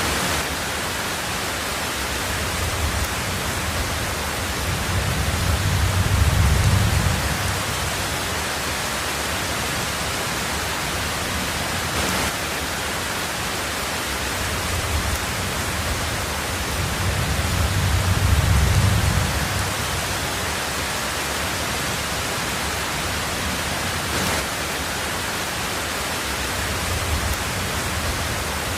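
Heavy rain drumming steadily on a tin roof, with two low rolls of thunder swelling and fading, one about a quarter of the way in and one about two-thirds of the way through.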